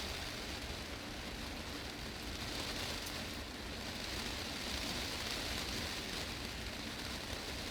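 Heavy rain drumming steadily on a glass greenhouse roof, a dense even hiss of many drops.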